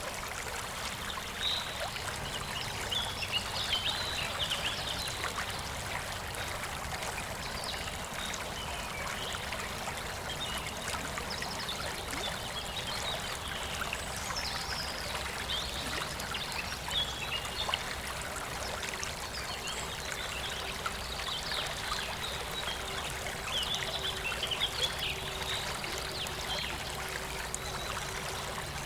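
A river flowing and trickling steadily, with scattered brief higher gurgles.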